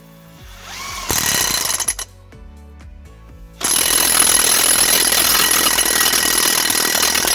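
Impact wrench hammering a nut on during a hydraulic cylinder rebuild: a brief burst about a second in, then a steady run of about four seconds from about three and a half seconds in.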